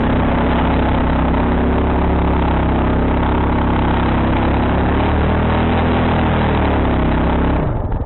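Quad bike engine running steadily under throttle, its pitch shifting a little about five seconds in. Near the end the throttle is let off and the engine drops abruptly to a slow, lumpy idle.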